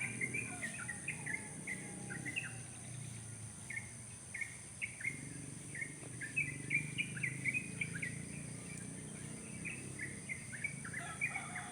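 Wild birds calling from a tree: a continuous run of short, sharp chirps, several a second, over a steady high hiss.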